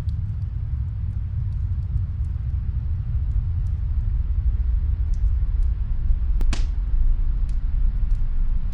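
Snowstorm wind as a steady deep rumble, with faint scattered crackles from a fireplace in another room and one sharper, louder crackle pop about two-thirds of the way through.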